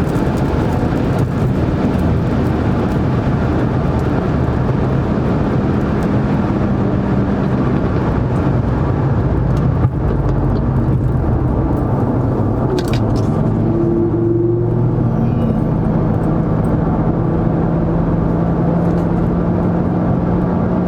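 Car engine running steadily under way, with heavy road and wind noise; its note steps to a new pitch a few times.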